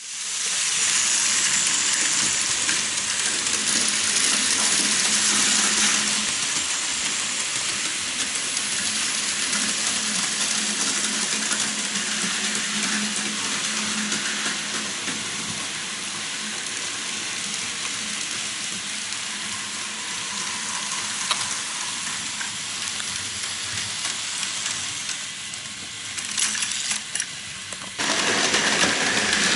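Plarail Advance toy trains and model trains running on a track layout: a steady rattling whir of small motors and wheels on the track, changing abruptly about 28 seconds in.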